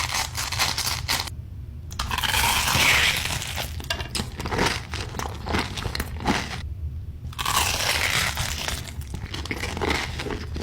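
Close-miked crunchy chewing and biting of sushi, in several runs broken by two short pauses, over a steady low hum.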